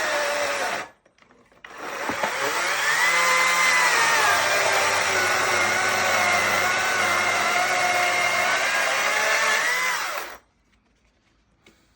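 Power saw cutting firewood. It stops briefly about a second in, starts again and runs up to speed, its pitch dipping and recovering as it cuts, then cuts off suddenly near the end.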